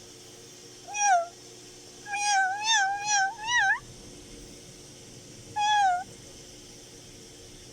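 Newborn kittens mewing in thin, high-pitched cries: one short mew about a second in, a quick run of about five mews between two and four seconds, and one more near six seconds.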